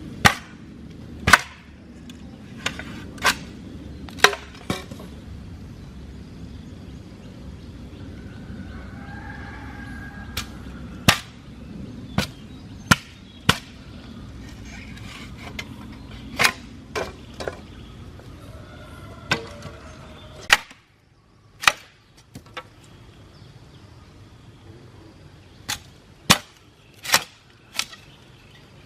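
Sharp, irregularly spaced strikes of a hand tool on wood, about twenty over the stretch, some in quick pairs or triples. A low steady rumble sits under them and stops about two-thirds of the way through.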